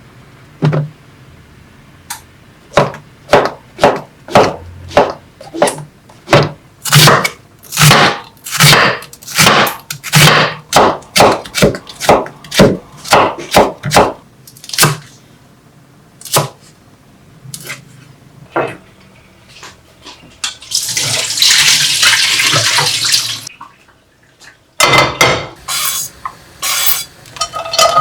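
A long run of sharp knocks, roughly two a second, of kitchen work. Near the end a kitchen tap runs for about two and a half seconds, followed by a few more knocks.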